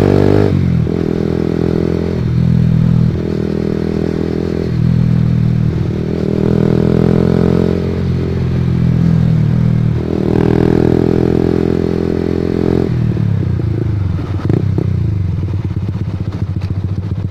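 Honda CB150R single-cylinder engine through an aftermarket Pro Liner TR-1 long carbon muffler, accelerating through the gears. The pitch climbs in several runs and drops back at each shift, then falls lower as the throttle eases off about 13 seconds in.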